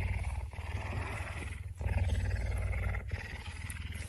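Cat purring loudly and close up: a low, fine-pulsed rumble that swells and dips about every second and a bit as the cat breathes in and out.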